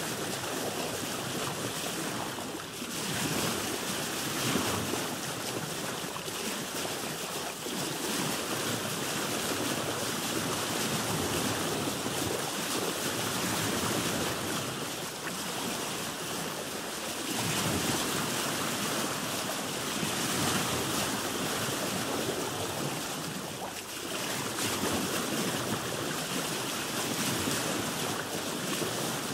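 Open sea heard from a boat: a steady rush of water that swells and eases every few seconds.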